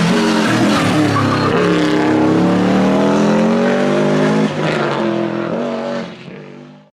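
Historic rally car engine at full throttle, its pitch rising and falling through the gears, with a sudden lift off the throttle a little past halfway, then fading away before cutting off abruptly.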